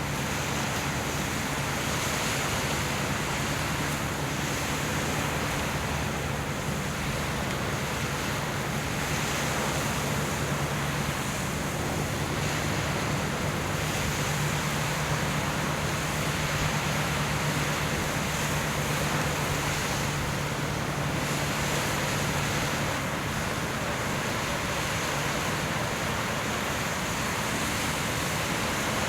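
Steady wind and sea noise on an open-air microphone, with a low, even engine hum from boats underneath.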